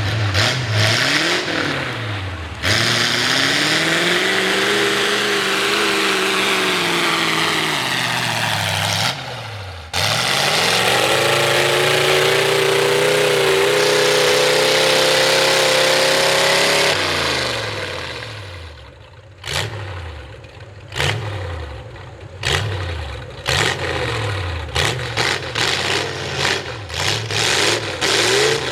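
Straight-piped V8 Ford mud truck engine on open upright headers, revving hard in long rises and falls of pitch. It is held at high revs for several seconds, then drops off and breaks into a run of quick throttle blips near the end.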